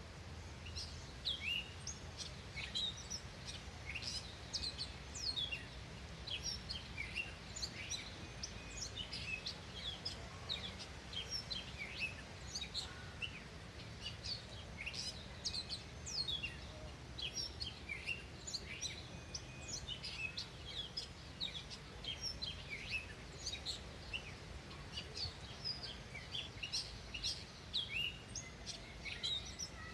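Small songbirds chirping, many short high notes that drop quickly in pitch, scattered close together over a steady low background rumble.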